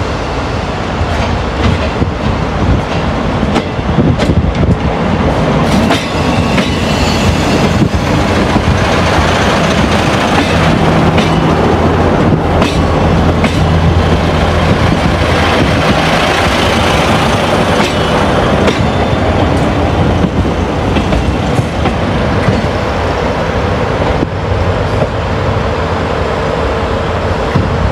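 A train passes close by at the platform, its wheels clicking over rail joints, with a low steady hum through the middle.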